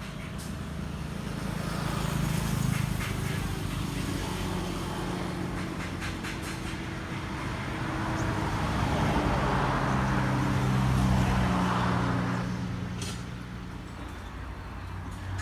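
Motor vehicles passing on a nearby road: engine hum swelling and fading, twice.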